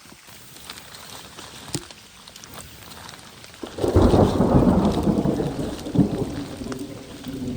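Rain falling with scattered drop ticks. A little past halfway a loud thunder rumble starts suddenly and slowly fades.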